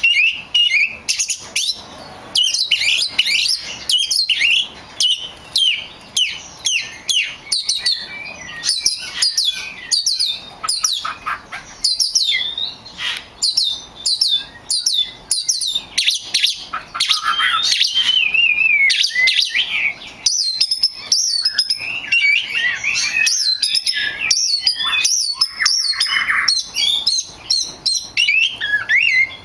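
Oriental magpie-robin (kacer) singing continuously: a fast, varied stream of sharp chirps, whistles and up-and-down sweeping notes.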